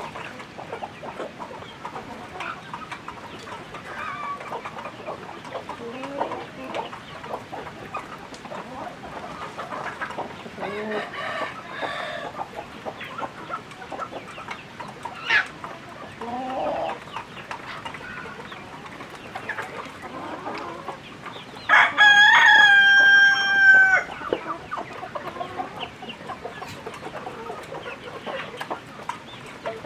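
Chickens clucking here and there, and a rooster crowing once, loud and held for about two seconds, about two-thirds of the way through.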